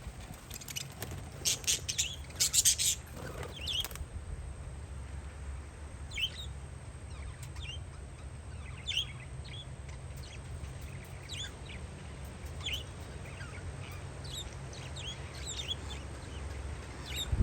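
Parakeets calling, with a flurry of loud, harsh calls in the first few seconds, then scattered short chirps, over a steady low rumble.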